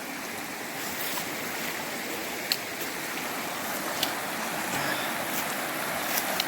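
Creek water rushing steadily over rocks, with a few sharp clicks over it.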